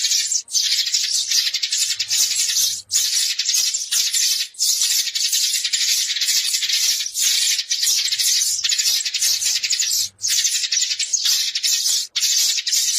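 A flock of sparrows chirping in a dense, continuous chatter, with short breaks every second or two. These are sparrows calling the flock together, the kind of recording played as a decoy to draw sparrows in.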